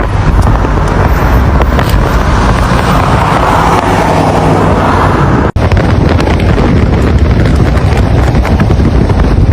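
Strong dust-storm wind roaring and buffeting the microphone, a loud, rumbling rush of noise that breaks off for an instant about five and a half seconds in, then carries on.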